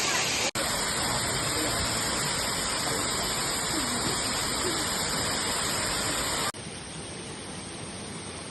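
Waterfall: a steady rush of falling water. It cuts out for an instant about half a second in, then about six and a half seconds in switches abruptly to a quieter, duller rush.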